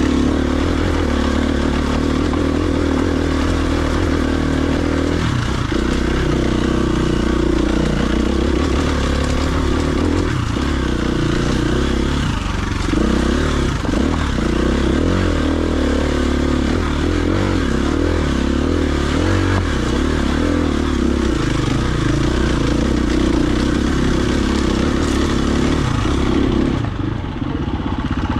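Enduro dirt bike engine running while being ridden, its pitch rising and falling as the throttle opens and closes, with a few brief dips in revs.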